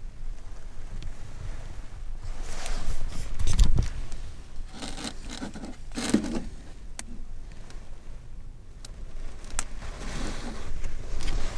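Rustling and scraping of things being handled, in three spells, with a few sharp clicks, over a steady low rumble.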